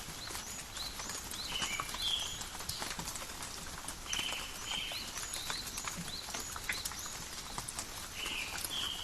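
Rain falling and dripping in a forest, a steady patter of many small drops, while a bird calls over it again and again: short high chirps and pairs of brief whistled notes in three bouts.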